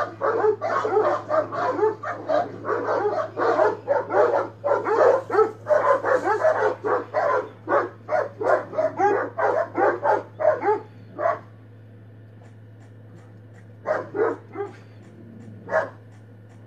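Several dogs barking at each other across a gate in rapid, overlapping volleys, several barks a second. The barking stops abruptly about eleven seconds in, and only a few single barks follow near the end.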